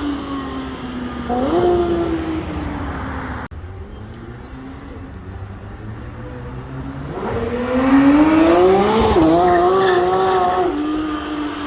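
Porsche 991.2 GT3 RS's 4.0-litre naturally aspirated flat-six under hard acceleration: a falling engine note with a short rev rise cuts off abruptly, then the note climbs steeply, dips once at a quick upshift, and falls away as the car goes past.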